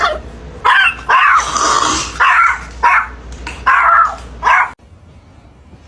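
A dog barking and yipping in a run of about six calls, some short and one drawn out, cut off suddenly near the end.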